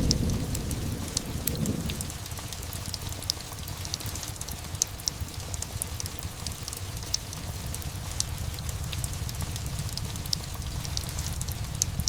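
Steady rain with scattered sharp ticks, as the tail of a low thunder rumble dies away over the first two seconds.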